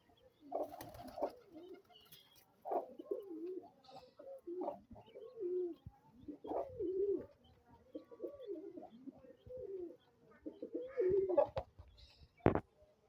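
Pigeons cooing over and over, low calls that bend up and down in pitch, with a single sharp click near the end.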